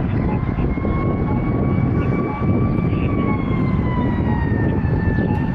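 An emergency vehicle's siren wails: one tone that climbs slowly, holds, then sinks again over a few seconds, above heavy engine and road rumble. A faint short beep repeats about twice a second underneath.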